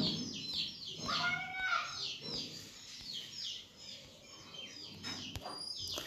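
Small birds chirping: quick, repeated high chirps that sweep downward, several a second, with a few longer whistled notes about a second in. A sharp click sounds about five seconds in.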